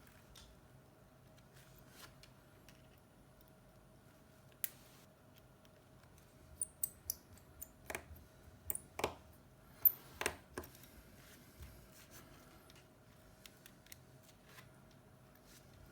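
Small, sharp clicks and taps of hand tools on phone parts during an iPhone 7 repair, a scattered run in the middle with the loudest click about ten seconds in, over a faint steady hum.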